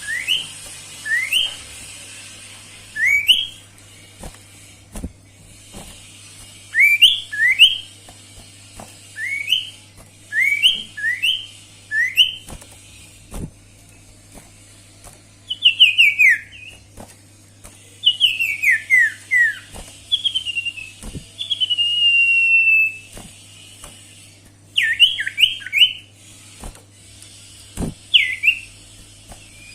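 Sirtu bird singing: short, clear whistled notes that sweep upward, mostly in quick pairs. Midway come runs of falling notes and one longer, slowly falling whistle. A steady low hum and a few faint clicks sit beneath.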